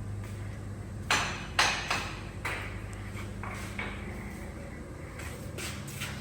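Several sharp metallic clanks and knocks from steel parts being worked, bunched in the first half with a couple more near the end, over a steady low hum.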